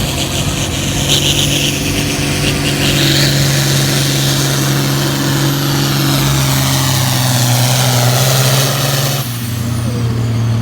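Farm-stock pulling tractor's engine running hard under load as it pulls the sled. Its pitch sinks slowly for most of the run, then drops abruptly about nine seconds in.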